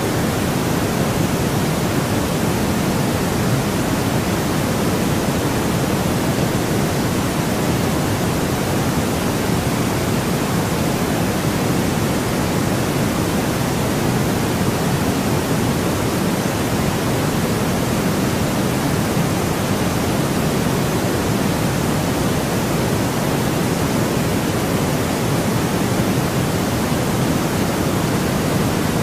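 Steady, unchanging white noise from a sleep-sound track: an even hiss with most of its weight in the lower range.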